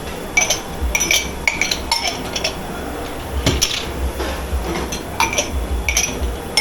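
Crockery and cutlery clinking and clattering as dishes are handled and stacked, a dozen or so sharp, ringing knocks at an irregular pace over a low steady hum.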